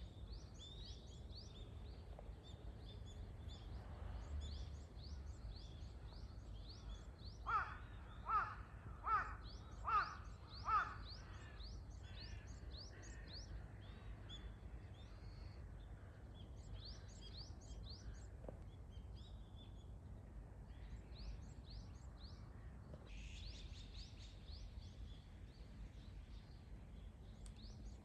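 Wild birds chirping and calling continuously. About a quarter of the way in, one bird gives five loud calls in a row, evenly spaced under a second apart, over a low steady background rumble.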